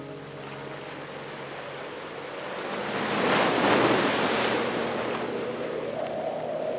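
Ocean waves breaking on a beach: a wash of surf that builds, peaks about three and a half seconds in, then subsides.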